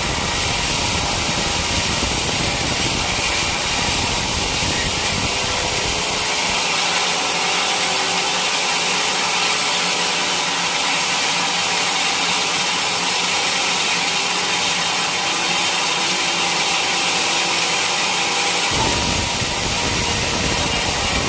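Sawmill saw running and cutting through a teak log, a steady loud hissing whine. The low engine rumble beneath it drops away for most of the middle and comes back near the end.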